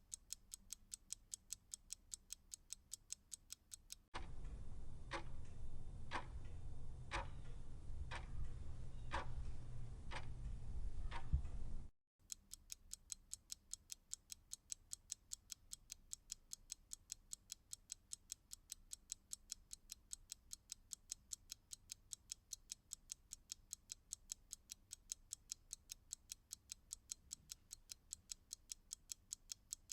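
Clock ticking quickly and evenly, about four ticks a second. From about four seconds in to about twelve seconds, a louder clock recording with a low rumble takes over, ticking slowly at about one tick a second. Then the fast ticking returns.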